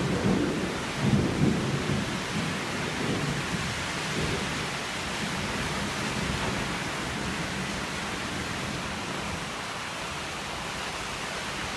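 Thunder rumbling and dying away over the first couple of seconds, under steady rain that keeps falling on its own after the rumble fades.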